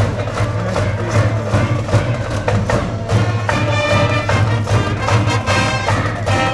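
School brass band in the cheering stands playing a baseball cheering tune, with held brass notes over a steady, regular drum beat.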